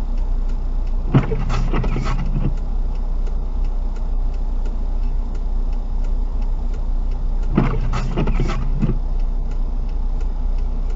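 Steady low engine-idle hum inside a car stopped in traffic, with a faint regular ticking. Twice, about six seconds apart, comes a brief cluster of three or four rubbing strokes.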